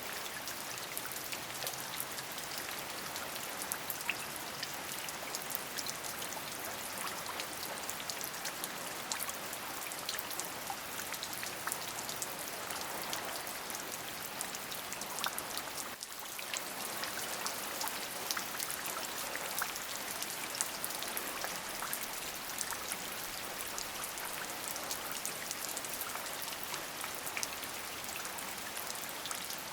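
Steady rain: an even hiss with many single drops ticking through it, and a brief dip in level about halfway through.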